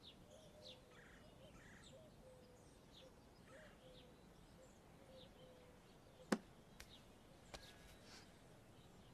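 Near silence, with faint scattered bird chirps in the background and a single sharp click about six seconds in.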